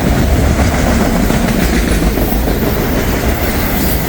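Freight train passing close by, its cars rolling over the rails with a steady, loud rumble.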